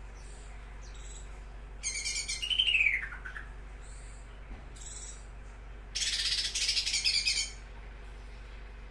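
A songbird singing in two loud bursts of rapid, high chattering song, the first ending in a falling whistle, with faint short high chirps in between.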